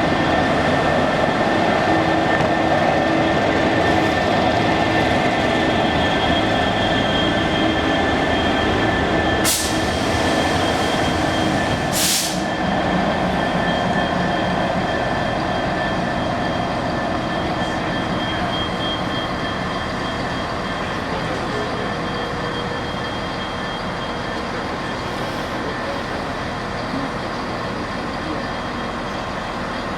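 Class 66 diesel-electric locomotive running light engine, its two-stroke V12 EMD diesel droning steadily and slowly growing quieter. Two sharp clicks a couple of seconds apart about a third of the way in.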